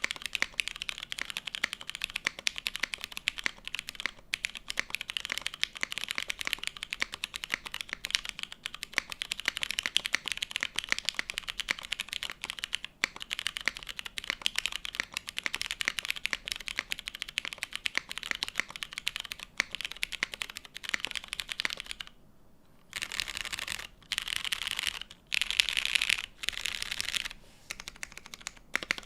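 Fast typing on an Axiom TYP60SL 60% mechanical keyboard with lubed, spring-swapped, filmed Cherry MX Brown switches on an aluminium plate, with JTK Night Sakura keycaps. Steady typing for about twenty seconds, then a short pause and several short bursts of rapid keystrokes.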